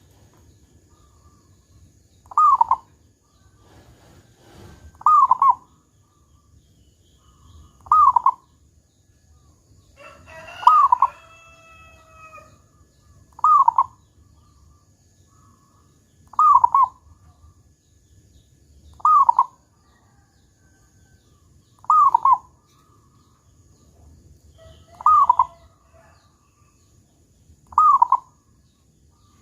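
Zebra dove (perkutut) singing its 'kung' coo over and over: about ten short falling coos, one every three seconds or so. About a third of the way in, a different call with several pitch lines overlaps one coo, and a faint steady high whine runs underneath.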